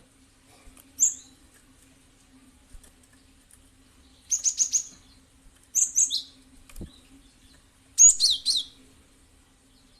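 A cinereous tit (gelatik batu) calling in short, high, quick groups of notes: a single chirp about a second in, then a run of four fast notes, a few more, and a final rapid burst near the end. A faint steady hum runs underneath, with one brief low thump.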